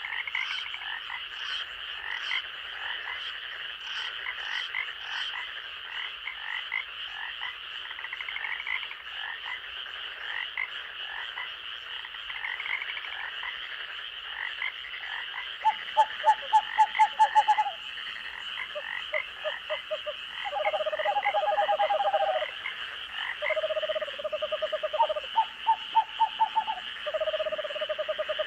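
Night chorus of frogs and insects: a steady high insect drone with many short chirping calls throughout. From about halfway on, louder frog calls come in in rapid pulsed trains of a second or two each.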